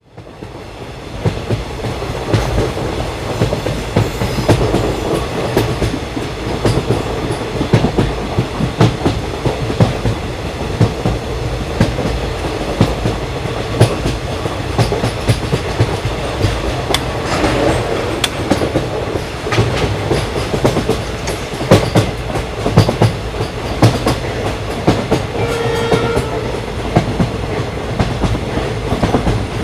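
Passenger train (the Patna Kota Express) running at speed, a steady rumble with the wheels clicking repeatedly over rail joints. A horn sounds briefly near the end.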